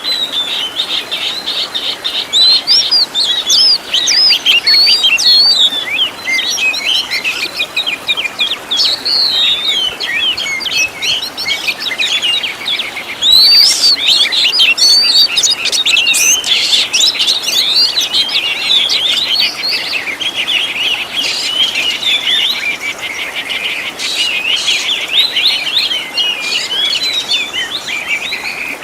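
Oriental magpie-robin singing a continuous, fast, varied song of chirps, whistles and rapid trills, laced with mimicked calls of other birds.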